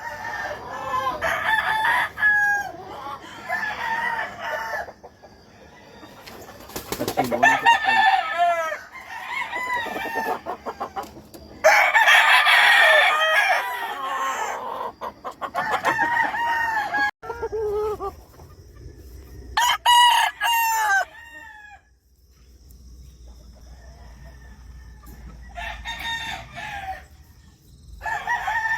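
Several game-fowl roosters crowing one after another, their crows at times overlapping, with a quieter stretch about two-thirds of the way through before they start again.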